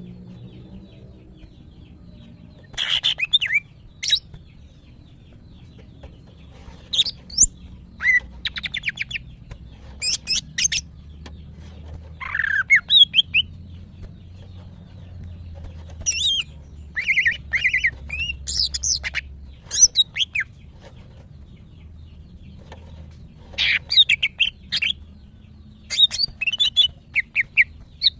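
Female greater green leafbird (cucak ijo) in breeding condition calling to males: bursts of quick chirps and short trills, separated by pauses of a few seconds.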